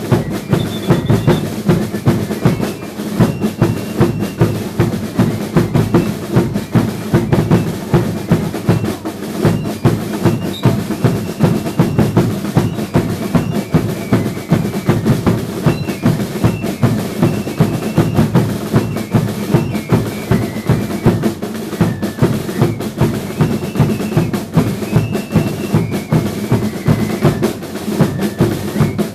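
Drum band of a Chilean religious 'indios' dance troupe playing a fast, driving beat, with about two strong bass-drum hits a second under rolling snare-like drumming. Short high piping notes sound over the drums now and then.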